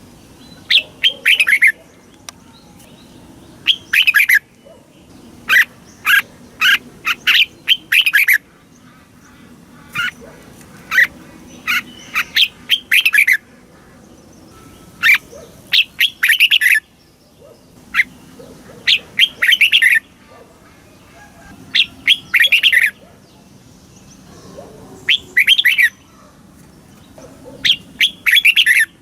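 Red-whiskered bulbul singing: short phrases of quick, bright chirping notes, repeated every two to three seconds with brief pauses between.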